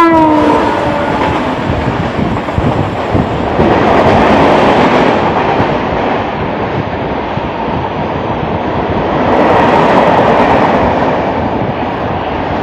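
The end of a WAP-7 electric locomotive's horn, dropping in pitch as it passes, then the steady rumble and wheel clatter of trains running past each other, heard through the open door of a moving local train. The noise swells about four seconds in and again near ten seconds.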